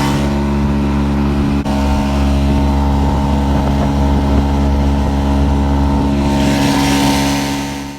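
Vehicle engine running steadily at a constant speed, with a brief dip about one and a half seconds in and a rising hiss near the end.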